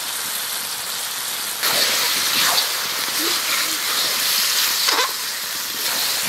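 Chicken pieces sizzling in a hot iron kadai as the spiced liquid cooks down, getting louder about one and a half seconds in, with a spatula scraping through the pan a few times.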